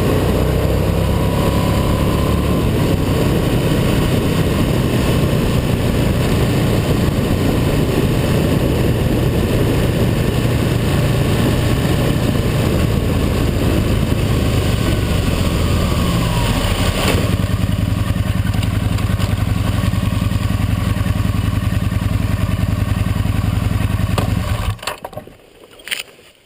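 Motorcycle running steadily at road speed, loud and constant. The sound changes about two-thirds of the way through, then drops away suddenly near the end, followed by a couple of sharp knocks.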